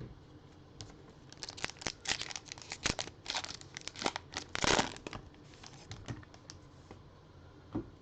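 A trading card pack's plastic wrapper being torn open and crinkled: a run of quick crackles and rustles, loudest a little before five seconds in.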